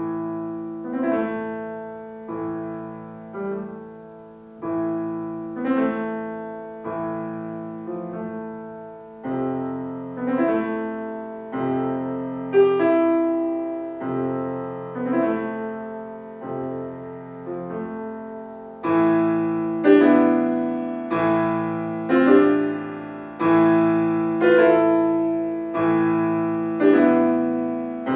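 Solo piano beginning a piece, playing measured notes and chords over sustained bass notes. It grows louder and brighter about two-thirds of the way through.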